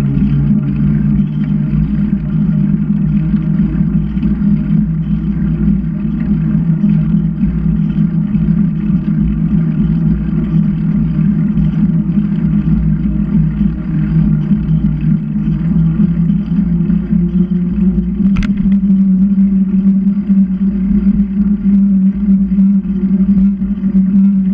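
Steady low rumble of riding on the move, unbroken throughout, with a single sharp click about eighteen seconds in.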